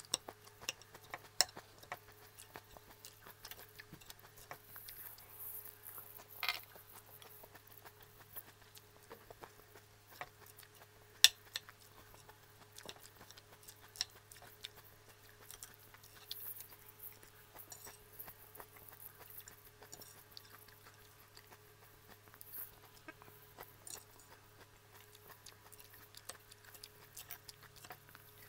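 Close-up eating of crisp shredded lettuce salad: scattered small crunches and mouth clicks, with a fork now and then clinking on the plate and one sharper click about eleven seconds in. A steady low hum runs underneath.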